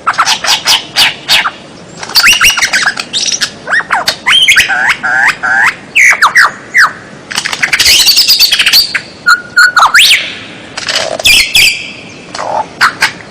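Songbird singing loudly in a fast, varied run of sharp chips, quick down-slurred whistles and harsh, buzzy squawks, barely pausing.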